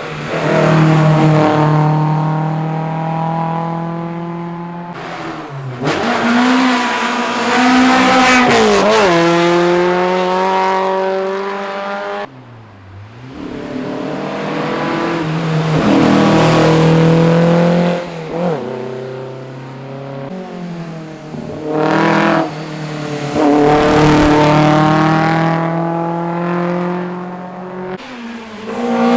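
Historic rally car engines at full throttle, accelerating hard through the gears. The pitch climbs and drops back at each shift, with several loud surges as the cars come through.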